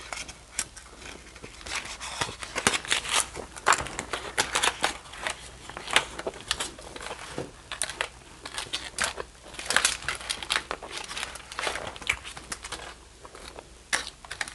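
Close-miked chewing of a mouthful of chicken gyro in pita: many small wet clicks and crackles of the mouth, with the aluminium foil wrap crinkling under her hand.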